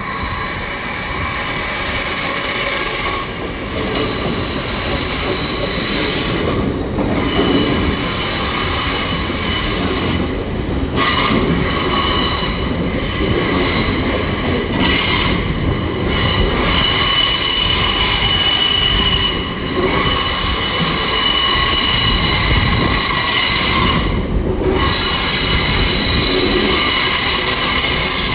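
Class 800 IET train pulling slowly into a terminus platform, its wheels squealing on the track. Several shrill tones shift and overlap over a low running rumble: an absolute racket.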